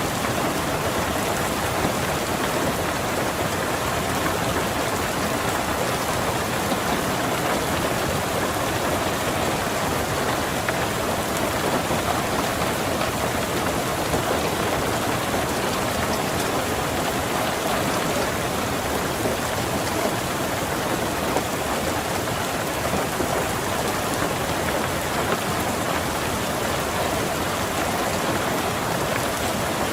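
Steady rain falling on a car, an even dense hiss with no breaks or thunder claps.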